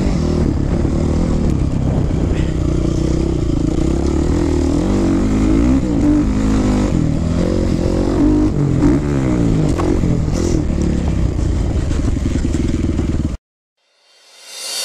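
Honda CRF450 dirt bike's single-cylinder four-stroke engine revving up and down as it is ridden hard, with the pitch rising and falling through the gears. The engine sound cuts off suddenly about 13 seconds in.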